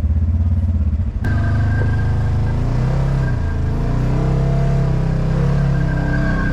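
Polaris RZR side-by-side's engine idling with an even low pulse. About a second in, the sound changes abruptly to the engine running under throttle, its pitch rising and falling, with a steady high whine above it.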